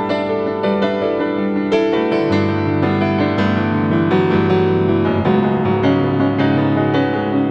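Background piano music, notes struck and held at an even pace.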